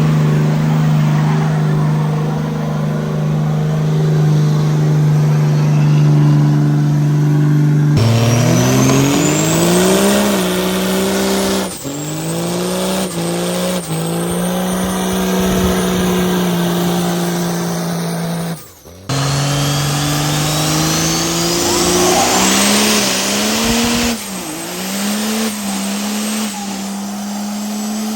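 Pickup truck engines held at high revs, as in a burnout, with tire squeal. First one engine holds a steady high note. Then, after a break, the revs climb and hang high with brief dips, over a rising high whistle and a haze of tire noise, and this happens again.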